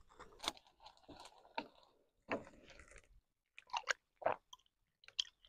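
A person drinking water from a plastic bottle: a few faint, short gulping and swallowing sounds, spaced out and strongest in the second half.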